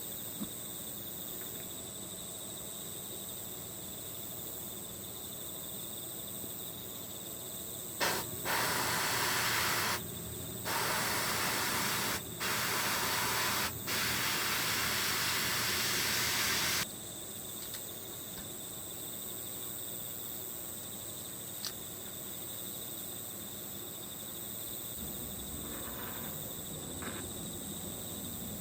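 Paint spray hissing in about five bursts, beginning roughly eight seconds in and stopping about nine seconds later, the longest near the end. Under it, steady chirring of crickets and insects.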